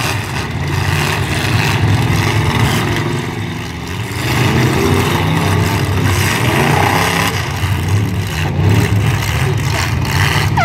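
Demolition derby cars' engines running and revving loudly together, with a brief drop in level about four seconds in.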